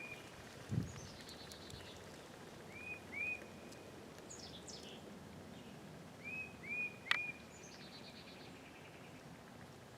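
Songbirds singing in the woods: one repeats short arched whistles in twos and threes, another twice gives a quick falling note that runs into a buzzy trill. A soft thud comes just under a second in, and a sharp click about seven seconds in.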